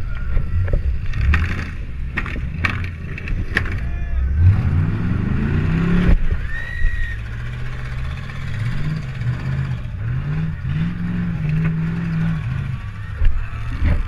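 Demolition derby car's engine heard from inside the car, revving hard: its pitch climbs steeply about four seconds in, then rises and falls repeatedly as the throttle is worked. Several sharp bangs come in the first few seconds.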